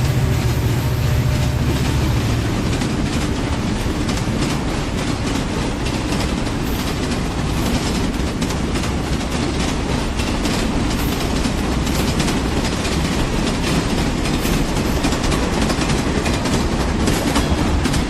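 Train running along the track: a steady rumble with a constant run of clicks from the wheels over the rails.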